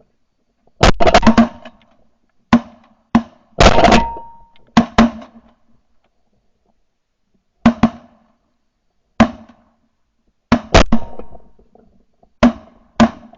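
A volley of shotgun shots from several hunters, about a dozen blasts in quick clusters, some fired almost on top of each other.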